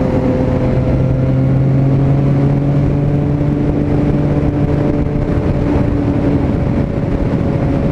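Yamaha MT-09's three-cylinder engine running at a steady cruising speed, its pitch holding almost level, under a constant rush of wind and road noise.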